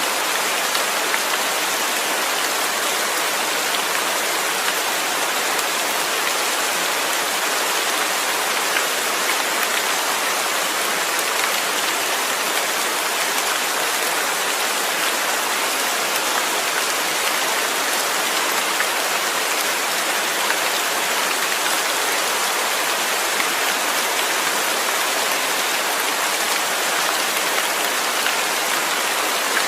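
Steady rainfall: an even hiss of rain falling on surfaces, with faint scattered drop ticks.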